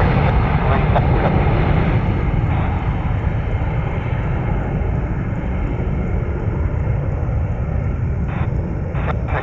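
Jet airliner engines running loudly as the aircraft passes, a steady deep noise that eases a little after about three seconds.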